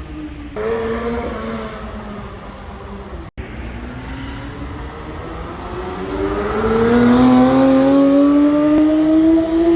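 Porsche 991.2 GT3 RS's flat-six engine: its note drops as the revs fall early on, then after a sudden cut it pulls steadily up through the revs under acceleration, growing loud in the second half.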